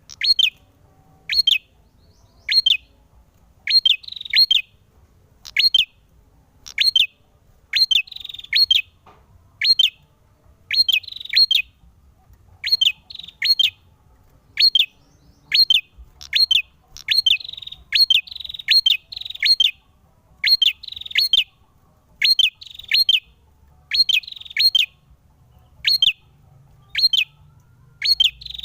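Male prenjak (prinia) singing persistently: loud, sharp, sweeping chirps in quick clusters repeated about every second, some ending in a short buzzy trill.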